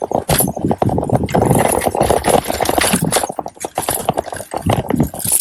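Shopping cart rattling as it is pushed across pavement, a fast continuous clatter of wheels and wire basket.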